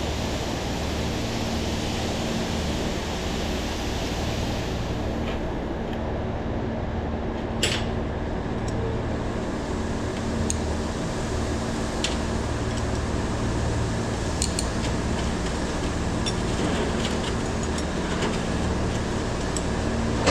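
A steady low machine hum, with a few sharp clicks over it, the loudest about eight seconds in.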